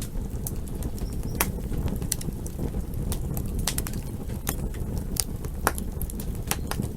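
Campfire burning: a steady low rumble of flames with irregular sharp crackles and pops of burning wood, a few louder pops about a second and a half in and near six seconds.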